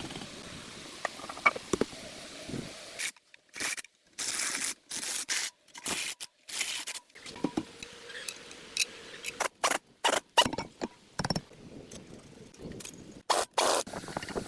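Scraping, clicking and knocking from hand work on parts, in short pieces broken by abrupt near-silent gaps.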